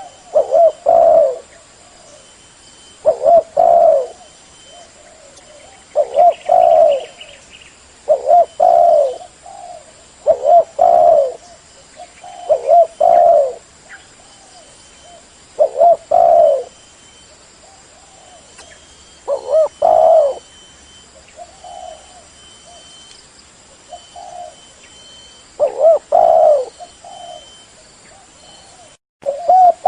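Spotted dove (derkuku) cooing: short phrases of low, throaty coos, about ten of them, each a second or less, repeating every few seconds.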